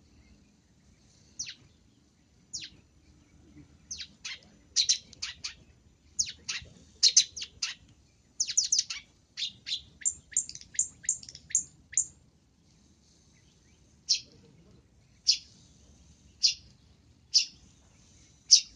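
Long-tailed shrike (pentet) calling: sharp, high chirps that sweep downward, a few at first, then a quick run of them for several seconds, a pause, and single chirps about once a second near the end.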